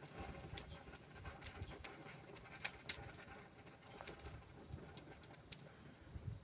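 Wood fire crackling, with irregular sharp pops over a low rumble; the loudest pops come about three seconds in.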